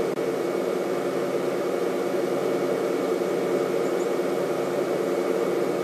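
Game-drive vehicle's engine idling steadily, a constant low hum.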